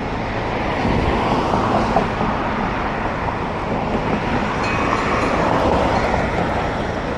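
Steady rushing wind and road noise on the camera microphone of a cyclist riding a road bike, swelling a little a couple of times.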